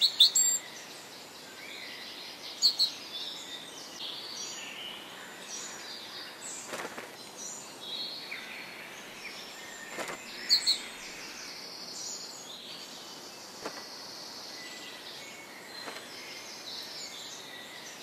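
Wild birds chirping and calling over a faint outdoor hiss, with a few short, sharper and louder calls right at the start, about three seconds in and about ten seconds in.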